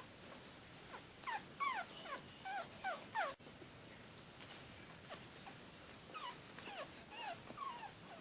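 One-week-old Maltese puppy whimpering in short, high squeaks that slide down in pitch, in two flurries of several cries each.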